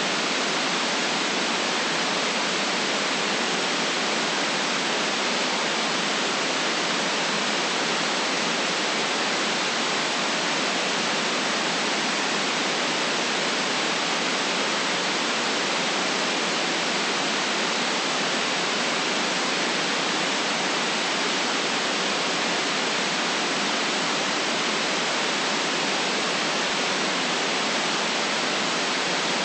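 Steady white noise: an even, unchanging hiss with nothing else in it.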